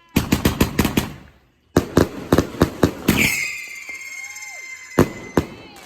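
Fireworks going off in rapid volleys of sharp bangs: a fast string in the first second, then another after a short gap. A steady high whistle starts about three seconds in and holds, and two more bangs come near the end.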